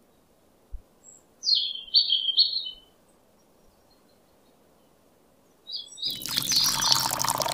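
A short run of high bird chirps about a second and a half in. Then, about six seconds in, water poured from a small steel pot splashes into a small plastic trough for about two seconds.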